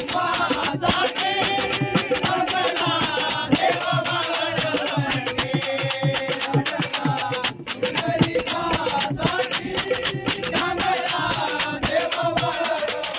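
Marathi devotional bhajan music: sung melody over a hand drum and fast, steady jingling percussion.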